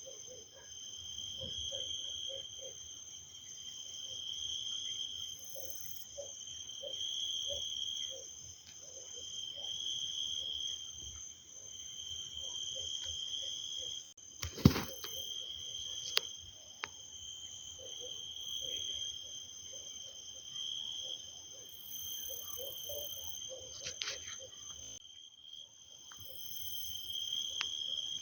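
Insects trilling steadily, a high, thin song that swells and fades every couple of seconds. A single sharp click cuts in about halfway through, with a fainter one soon after.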